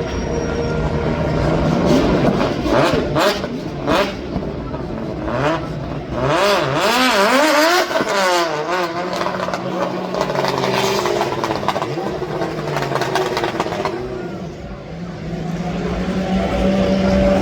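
Car engines at full throttle passing on a hill climb. The pitch swings rapidly up and down about halfway through, and a steady engine note rises again near the end.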